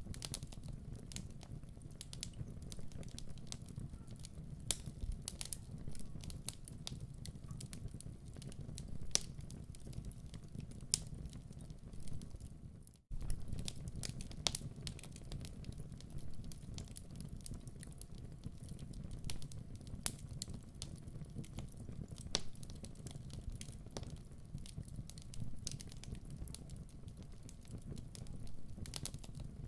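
Wood fire in a fireplace crackling, with irregular sharp pops and snaps over a low steady rumble of flames. The sound cuts out for an instant about thirteen seconds in.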